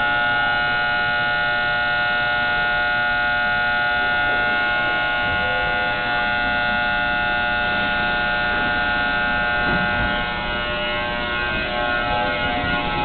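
Steady high-pitched whine of several tones at once from the underfloor equipment of a JR West 221 series electric train, holding level pitch throughout and easing a little about ten seconds in. It is the abnormal noise coming from under the car, which the uploader traces to car MoHa 220-1.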